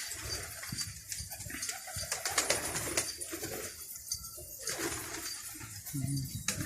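Domestic pigeons cooing softly, low-pitched, with a clearer coo near the end.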